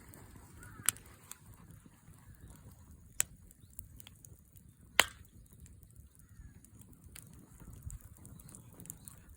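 Wood fire burning in a Coleman Fireplace 3 fire pit, giving a few sharp crackling pops a second or two apart, the loudest about five seconds in, over a low steady rumble.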